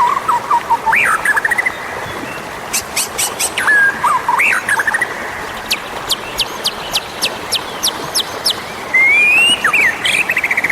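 White-rumped shama singing: varied whistled phrases that glide up and down, a run of sharp high chips in the middle, and a long rising whistle near the end.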